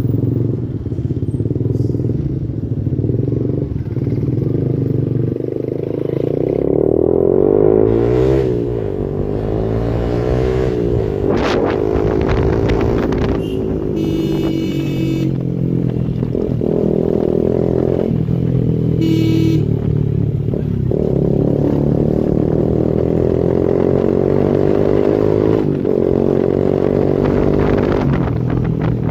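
Yamaha R15 V2's single-cylinder four-stroke engine running through an aftermarket exhaust, held at a steady beat, with revs that rise and fall a couple of times about a third of the way in.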